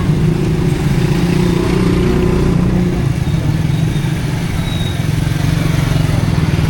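A small motor vehicle's engine running steadily and loudly, a low pulsing engine note.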